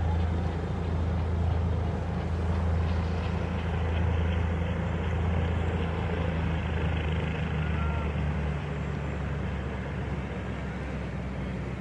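Steady low engine drone with a noisy haze over it, easing a little about seven seconds in.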